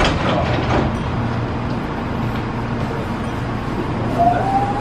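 Nose Electric Railway train running with a steady low rumble, and a faint tone rising slightly in pitch near the end.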